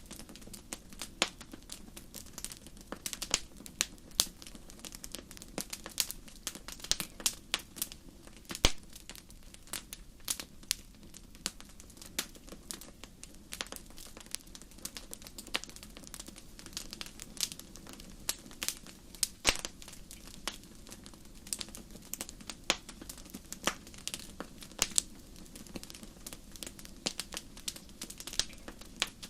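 Wood bonfire crackling: many irregular sharp snaps and pops, some much louder than the rest, over a faint steady low rush.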